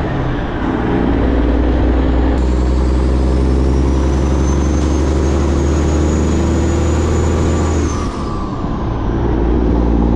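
Semi truck's straight-piped Detroit Diesel engine pulling under load, its pitch climbing through a gear with a high whine rising alongside. About eight seconds in the revs drop for a gear shift and the engine pulls again.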